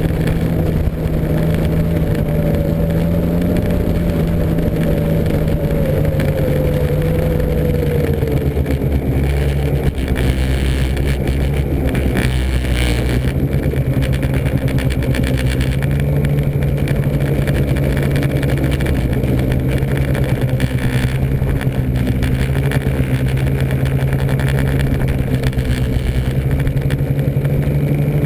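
Snowmobile engine running steadily, its pitch easing down over the first several seconds, with a brief rush of hiss about twelve seconds in.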